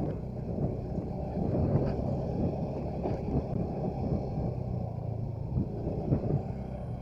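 Motorcycle running along at riding speed, a steady low rumble mixed with wind noise on the microphone.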